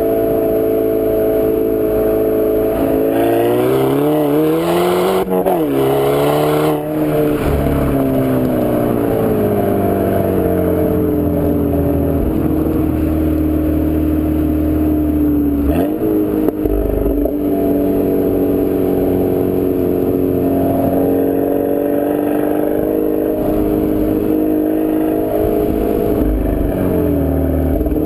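2011 Volkswagen GTI's turbocharged 2.0-litre four-cylinder breathing through an APR turboback exhaust, pulling up through the revs with two quick drops in pitch in the first seven seconds, then running at fairly steady revs while cruising. The revs climb again near the end.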